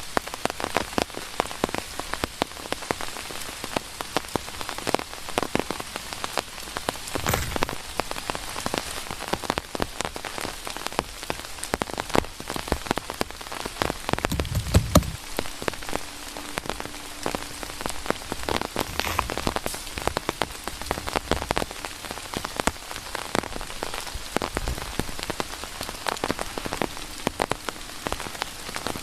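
Steady rain, dense individual drops pattering sharply on nearby surfaces, with a couple of louder low thumps about 7 and 15 seconds in.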